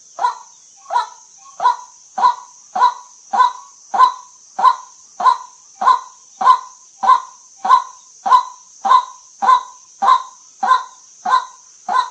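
White-breasted waterhen calling: one short 'kwak' note repeated evenly, a little under two a second, over a steady high hiss.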